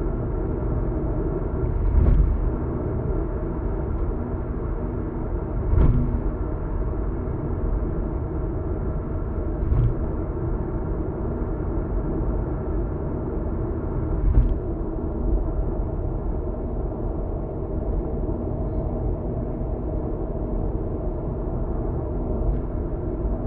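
A car cruising on an expressway, heard from inside the cabin: steady tyre and road rumble. A short thump comes every few seconds, five in all, as the tyres cross joints or bumps in the road.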